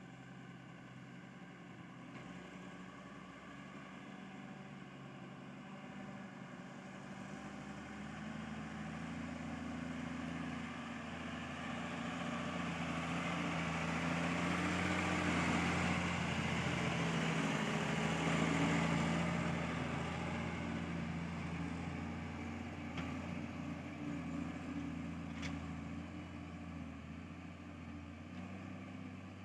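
A diesel engine running, growing louder to a peak about halfway through and then easing off again, with two faint clicks near the end.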